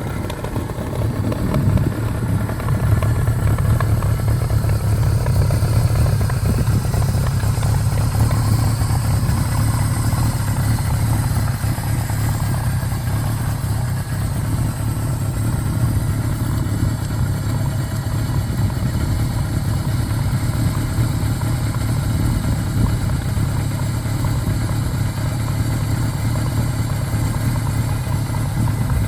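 Kawasaki Z1R's air-cooled inline-four engine, a Sanctuary RCM-241 build, idling steadily at an even pitch.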